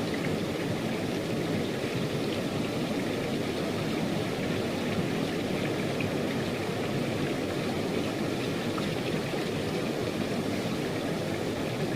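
Steady rain falling, heavily: an even, unbroken rushing hiss.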